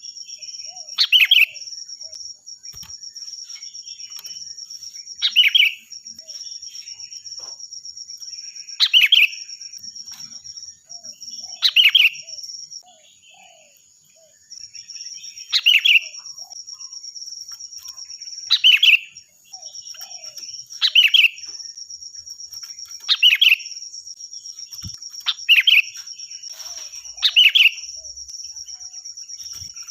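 Sooty-headed bulbul (kutilang) singing loud, short, clear phrases, about eleven of them, one every two to four seconds. A steady high-pitched buzz runs underneath.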